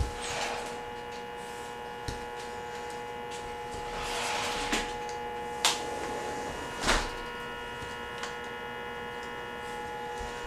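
Steady electrical hum with a few sharp clicks and light rustling as plastic alphabet magnets are handled.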